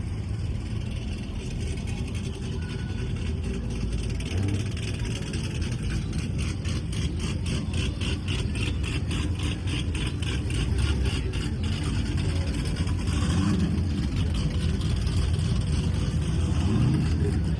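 Car and truck engines running with a steady low rumble, one revving up a little twice near the end. A fast, even ticking of about four a second runs through the middle.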